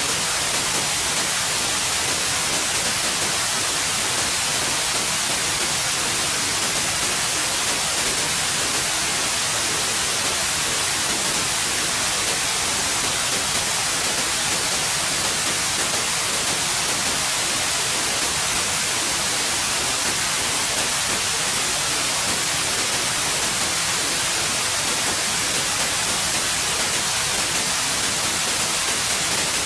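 Steady white noise: an even, unbroken hiss, brightest in the high end, with no changes.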